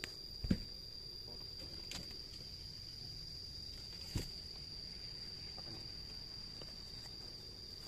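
Steady high-pitched insect drone, with a few short dull knocks about half a second in and again around four seconds.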